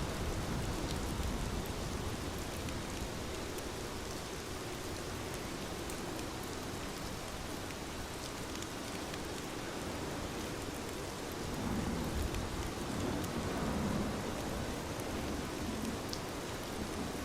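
Steady rain falling on a window, an even hiss with scattered faint drop ticks. A low swell rises and fades about two-thirds of the way through.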